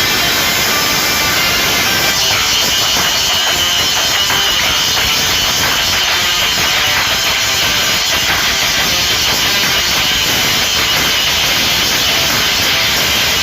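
Bosch GWS 18V-Li cordless angle grinder cutting under load, a steady harsh grinding with a high whine that strengthens about two seconds in, over background music.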